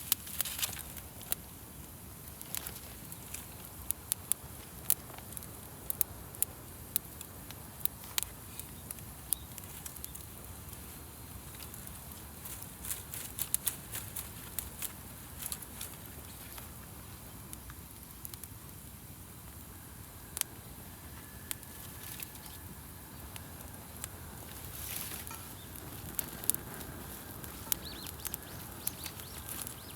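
Wood campfire crackling: sharp, irregular snaps and clicks over a low steady hiss of burning.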